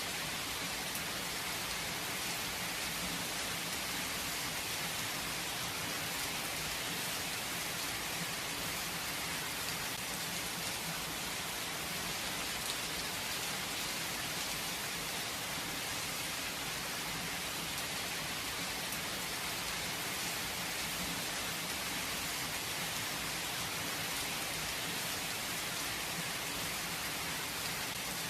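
Steady rain falling without thunder, an even hiss of many drops with faint individual patters.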